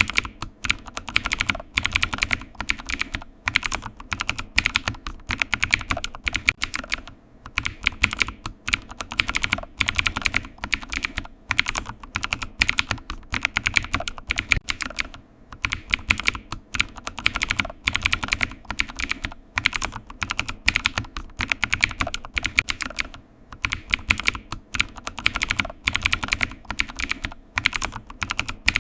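Steady typing on a computer keyboard: rapid runs of key clicks broken by brief pauses every several seconds.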